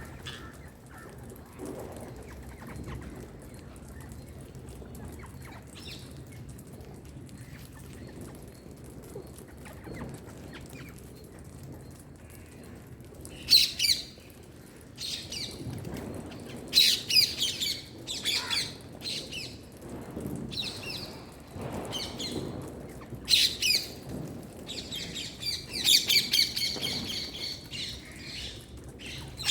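Pet Indian green parrot giving a run of sharp, shrill squawks and chirps, starting about halfway in after a quieter stretch.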